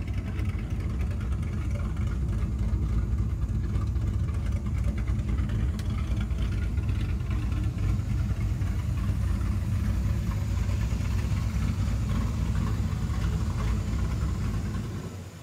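Chevrolet Chevelle SS 396's big-block V8 idling steadily.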